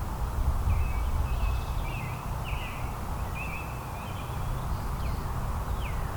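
Small songbirds chirping, with a run of quick warbled phrases followed by two short down-slurred calls near the end, over a steady low rumble.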